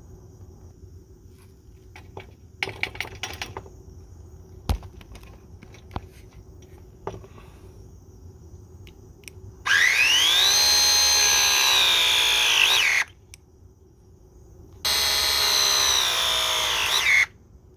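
A few light clicks and a knock of tool handling, then a cordless power drill run twice for about three seconds each: the motor whines up to speed, holds steady, and winds down as the trigger is released.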